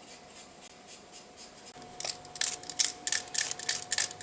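Vegetable peeler scraping down a carrot in quick repeated strokes, about four or five a second, starting about halfway through.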